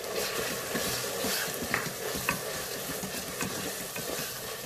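Beef and tomato purée sizzling in hot oil in the inner pot of an electric rice cooker while a wooden spatula stirs them, with a few light clicks of the spatula against the pot.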